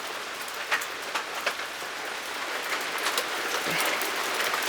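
Light rain falling, with many separate drops ticking sharply on nearby surfaces.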